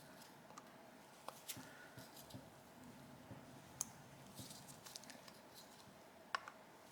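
Faint, scattered clicks and light taps of small carburetor parts and hand tools being handled during the strip-down of a motorcycle carburetor, with two sharper clicks near the middle and near the end.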